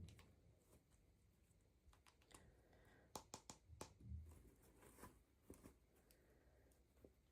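Near silence with faint scattered clicks and light crinkling: small plastic toy pieces and packaging being handled, with a soft bump a little after four seconds in.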